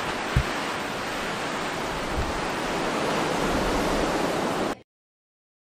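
Blizzard wind blowing hard: a steady rushing hiss with a couple of low thumps from gusts buffeting the microphone. It cuts off suddenly near the end.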